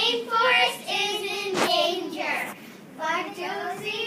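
A child singing in a sing-song voice with long held notes, pausing briefly about two and a half seconds in. A single sharp click is heard about a second and a half in.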